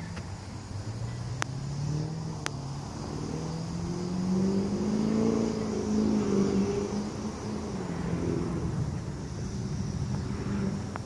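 A car engine running, its pitch and loudness rising over several seconds and then falling back, with two light clicks a second or two in.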